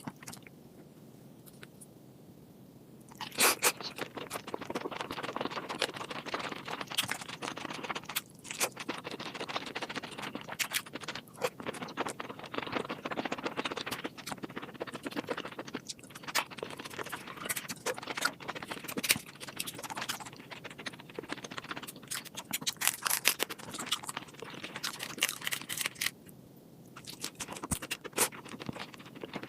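Close-miked eating sounds of seafood: handling, shell cracking and chewing, heard as dense scraping and many sharp clicks. They start about three seconds in and pause briefly near the end.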